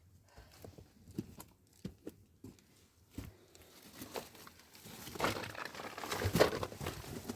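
Scattered light knocks, then crinkling and rustling that builds over the last few seconds, loudest near the end.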